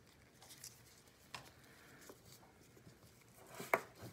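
Faint scattered clicks and soft rustling of IV supplies being handled by gloved hands, with one sharper click near the end.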